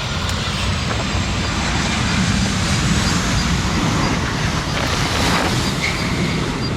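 Steady loud rumble of jet airliner engines, mixed with strong wind buffeting the microphone.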